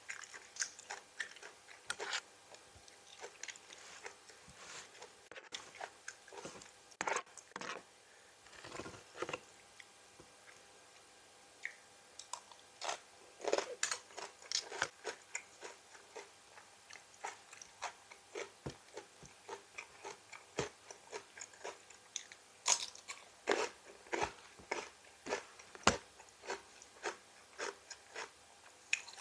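A person biting and chewing crunchy food at close range, most likely crisp raw vegetables, with many irregular crisp crunches.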